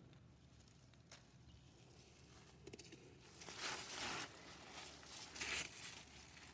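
Rustling of dry garden vegetation, in two loud bursts after a few light clicks, as plants are brushed and pushed aside.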